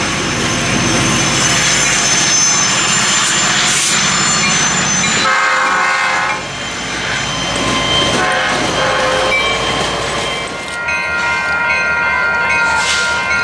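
Diesel freight locomotives on the move, with rail noise and a high squeal from the wheels. A locomotive horn sounds briefly about five seconds in, and a horn blows steadily from about eleven seconds on.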